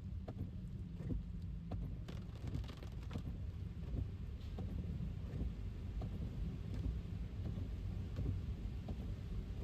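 Electric car driving on wet city streets in the rain: a steady low road rumble with scattered, irregular raindrop taps.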